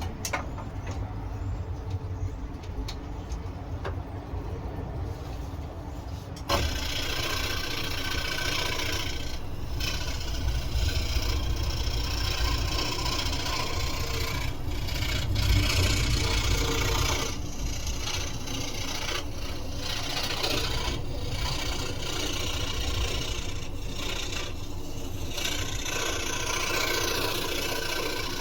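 Scroll saw running with a low hum, then about six seconds in the blade starts cutting wood: a steady rasping with brief lulls as the work is fed through.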